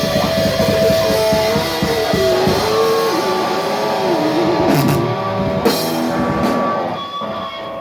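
Thrash metal band playing live with distorted electric guitars and drum kit. About three seconds in the drums drop out, leaving guitar notes bending and wavering in pitch with a few cymbal crashes, and the sound tails off near the end as the song closes.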